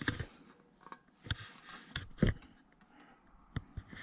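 Parts and tools being handled during a boiler service: a few sharp clicks and knocks, the loudest a little past two seconds in, with a short scraping rustle between them.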